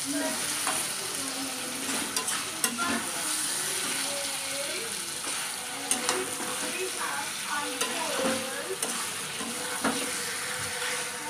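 Chicken pieces and onion chunks sizzling as they fry in a kadai, stirred with a spatula that scrapes and knocks against the pan now and then with a few sharp clicks.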